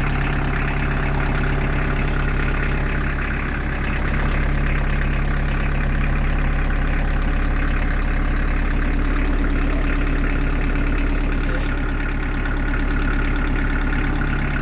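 Newly fitted Beta Marine diesel engine of a narrowboat idling steadily, within its first minutes of running after its first start. It gets a little louder about four seconds in.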